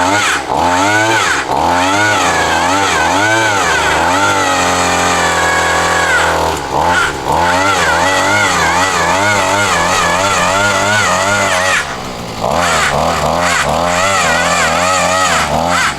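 Small gas engine of a post-hole auger running hard, its speed swinging up and down about twice a second as the auger bites into the ground, holding steady briefly a few seconds in and dipping for a moment twice.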